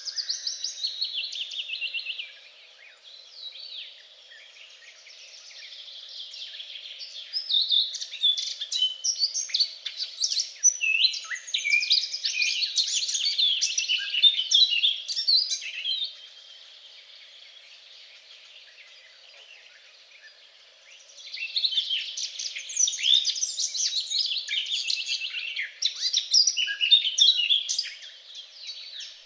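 Songbirds singing in long bouts of rapid, high notes, with quieter pauses between the bouts.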